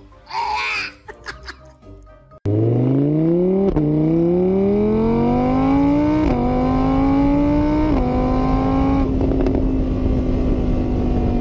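A car engine accelerating hard through the gears, cutting in suddenly about two and a half seconds in. The engine note climbs and drops back at each of three gear changes, then holds a steady high pitch.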